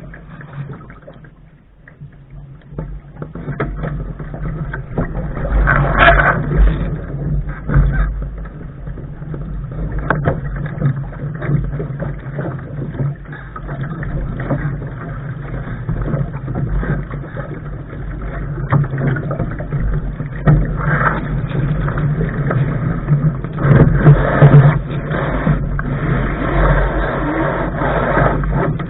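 Wind buffeting the camera's microphone and water rushing along the hull of a Lark sailing dinghy under sail, a steady rumbling noise that swells and eases, loudest about six seconds in and again near the end.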